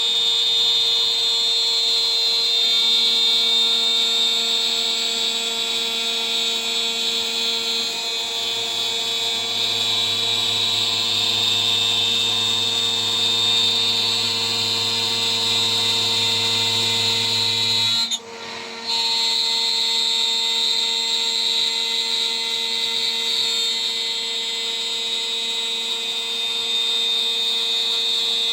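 A CNC router spindle running steadily with a high whine while a 3 mm three-flute end mill cuts a part. The sound briefly drops out about two-thirds of the way through, then resumes.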